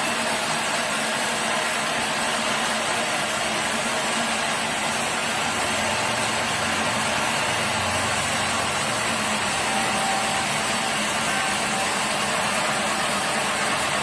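Sawmill machinery running steadily, an even mechanical noise that neither rises nor falls.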